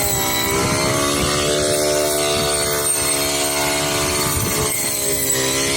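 Tractor engine running steadily, its pitch dipping slightly just after the start and again about five seconds in.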